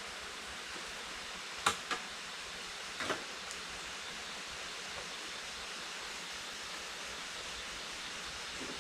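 Steady, even outdoor hiss, with two quick sharp knocks a little under two seconds in and another about three seconds in.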